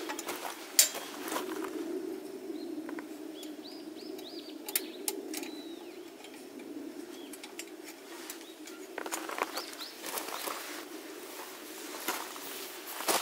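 Small birds chirping in a run of short, high, rising-and-falling calls, with a few sharp clicks and knocks of gear being handled over a steady low hum.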